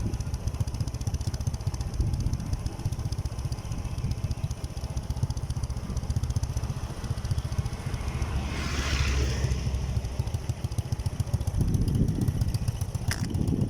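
Motorcycle engine running at low speed, a steady low rumble, with a brief hiss about nine seconds in.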